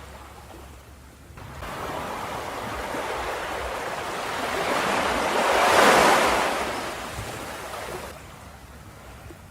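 Ocean waves breaking on a beach: one wave builds to a rushing crash about six seconds in and then washes back down.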